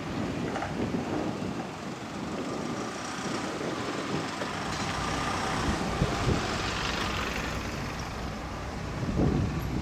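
Steady engine rumble mixed with an even wash of noise.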